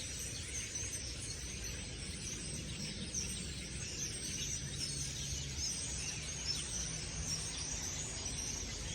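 A large flock of birds chattering, many faint overlapping chirps, over a steady low background rumble.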